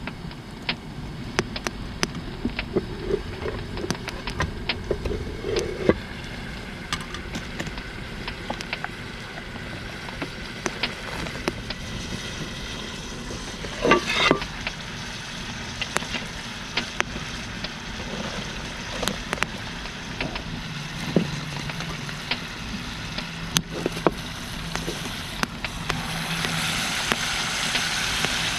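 Food sizzling over a campfire, with many sharp crackling pops throughout. There is a brief louder rattle about halfway, and the hiss grows louder near the end.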